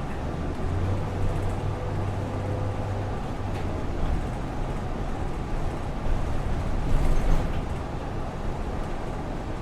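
City street traffic ambience: a steady wash of road noise, with a vehicle's low engine hum through the first few seconds and a slightly louder passing swell around seven seconds in.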